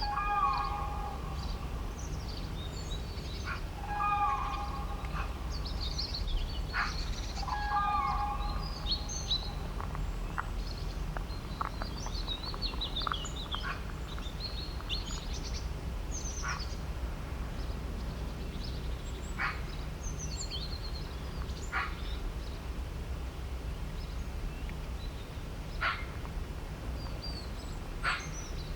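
Several birds chirping and calling, with short high notes throughout and sharp single chirps every few seconds. A louder, lower pitched call sounds three times in the first eight seconds. A steady low rumble runs underneath.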